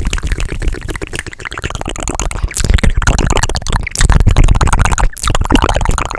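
Fast, aggressive close-microphone ASMR trigger sounds made with the mouth and hands: a dense run of rapid clicks and rubbing noises.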